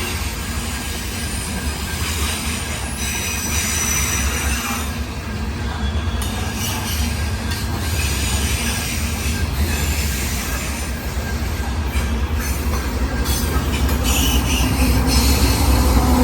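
Freight cars of a long grain train rolling past with a steady low rumble, wheels squealing and clicking over the rail joints, growing a little louder toward the end.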